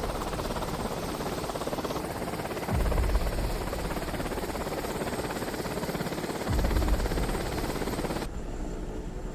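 Helicopter in flight: a rapid, even rotor-blade chop over engine noise, with a deep rumble that swells about three seconds in and again past the middle. The sound changes abruptly about two seconds in and again near the end.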